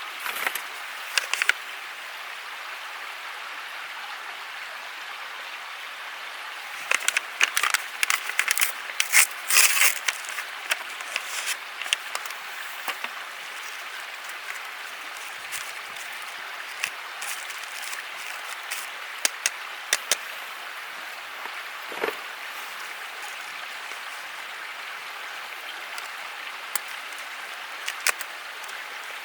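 Steady rush of a flowing stream, with scattered sharp clicks and snaps over it, crowded together for a few seconds in the first half.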